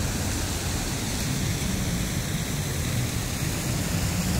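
Steady roar of street traffic, with a vehicle engine's low hum coming up about a second in and growing louder.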